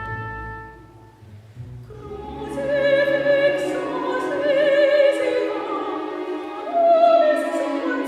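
Classical choral-orchestral music. Held orchestral notes fade out, and about two seconds in, voices singing with wide vibrato enter over the chamber orchestra.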